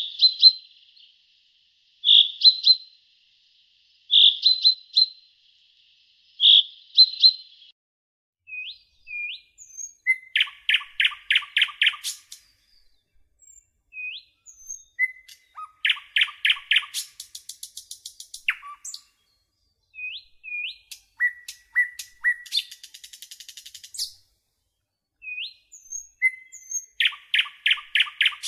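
Birdsong: a short chirped phrase repeated about every two seconds, then quick trills of rapid notes with short upward-hooked whistled calls between them.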